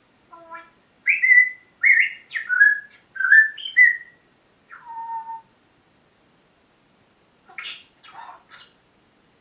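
Pet parrot whistling a quick run of gliding notes, then after a pause giving a few short, rough calls.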